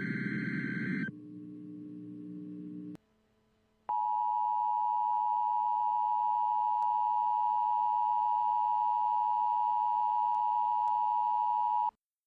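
Emergency alert attention tone: a steady single-pitch electronic tone near 1 kHz that starts about four seconds in, holds for about eight seconds and cuts off sharply. It is the NOAA Weather Radio warning alarm tone that precedes a weather watch message. Before it, a louder electronic sound ends about a second in, and quieter low tones follow until a short gap.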